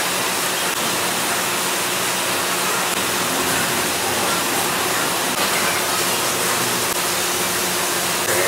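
Steady hiss of heavy rain falling on a sheet-metal roof.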